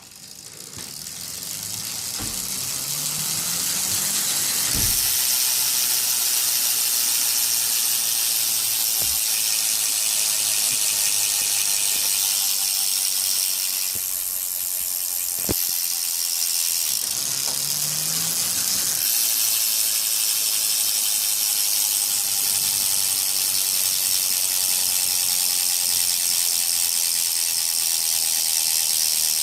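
Mavic Aksium Elite bicycle wheel hub freewheeling, its freehub pawls ticking so fast they blend into a continuous high-pitched buzz. The sound builds over the first few seconds, holds steady, and dips briefly about halfway through. A few short knocks are heard along the way.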